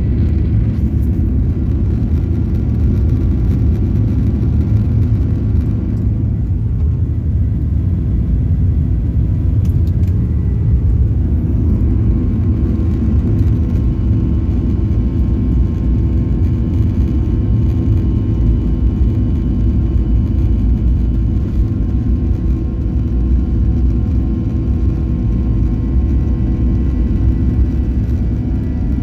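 Jet airliner engines running as a steady low rumble, with faint steady whining tones above it.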